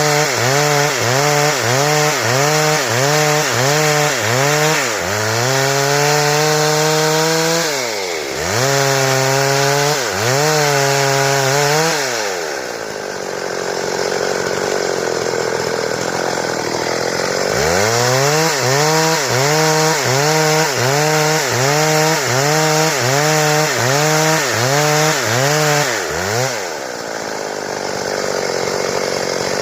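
Stihl chainsaw's two-stroke engine at full throttle cutting wood into boards, its pitch dipping and recovering about twice a second under the load of the cut. About twelve seconds in it drops back to idle for roughly five seconds, then revs up and cuts again, and it falls back to idle near the end.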